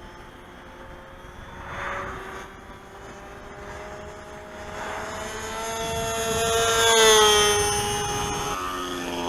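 Radio-controlled model Spitfire with an O.S. 46 AX two-stroke glow engine flying past: a steady buzzing engine note that grows louder and slightly higher to its loudest about seven seconds in, then drops in pitch near the end as the plane passes.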